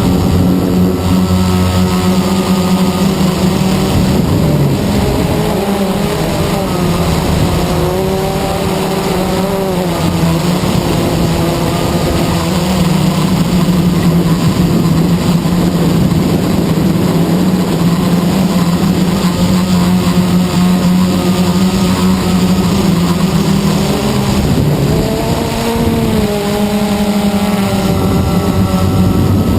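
Blade 350 QX quadcopter's electric motors and propellers droning steadily. The pitch dips and rises a few times as the throttle changes, most clearly about a third of the way in and again near the end.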